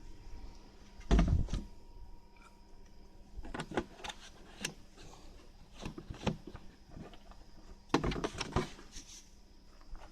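A series of knocks and clatters from things being handled and set down, the loudest about a second in, with more clusters around four seconds and eight seconds in.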